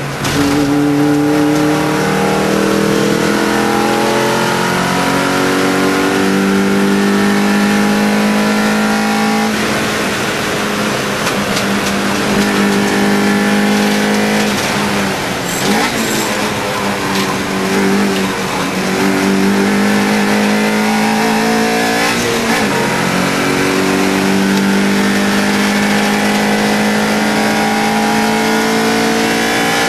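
Mini Challenge Cooper race car's 1.6-litre, 125 hp engine under hard driving, its pitch climbing through the revs and falling sharply at several gear changes, with slower drops as the car lifts off for corners.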